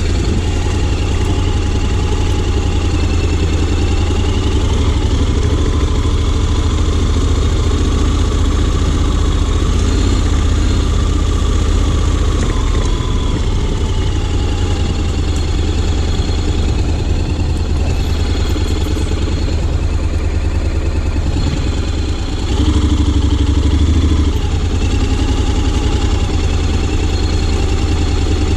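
Honda X-ADV 750's parallel-twin engine running at low, fairly steady revs, with a short louder burst of throttle about three-quarters of the way through.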